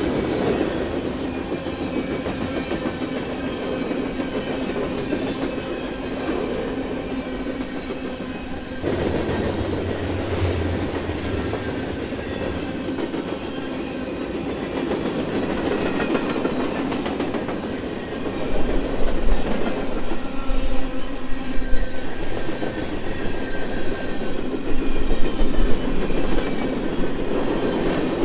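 A BNSF freight train's cars rolling past, with wheels clattering over the rail and a steady rumble. The sound changes suddenly about a third of the way in, and heavier, irregular low knocks and bangs begin after about two-thirds.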